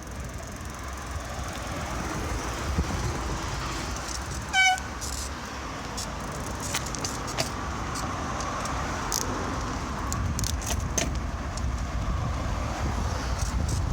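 Wind rumble on the microphone of a bicycle in motion, with road traffic, cut by a single short horn toot about four and a half seconds in, the loudest sound. Scattered light clicks follow in the second half.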